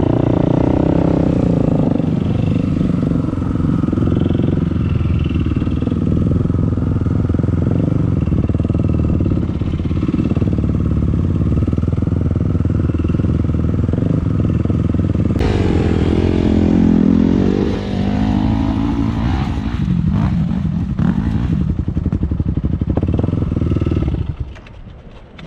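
Dirt bike engine running on the move, its note rising and falling with the throttle. The sound drops away sharply near the end.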